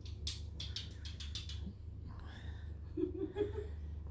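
Laughter: a quick run of breathy, airy laughs in the first second and a half, then a few short pitched giggles about three seconds in, over a steady low electrical hum.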